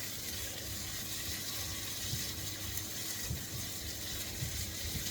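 Food sizzling in a wok as a sprinkle of flour is cooked out to thicken the sauce: a steady hiss, with a few soft low knocks.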